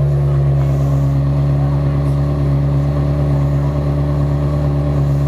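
Ferrari 360 Modena's 3.6-litre V8 idling steadily through an aftermarket exhaust.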